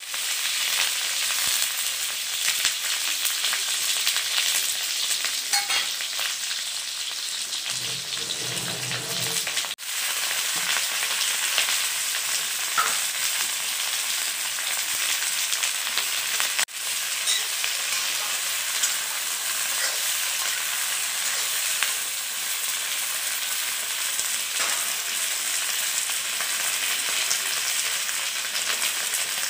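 Onion pieces, then cut okra and potatoes, sizzling in hot oil in a steel kadai: a steady frying hiss. It cuts out abruptly twice, briefly each time.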